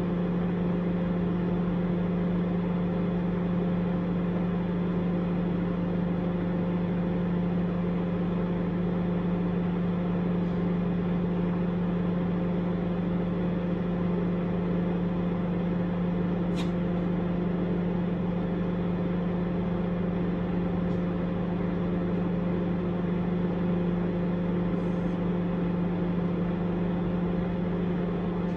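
Microwave oven running with a steady hum, with a single small click about two-thirds of the way through.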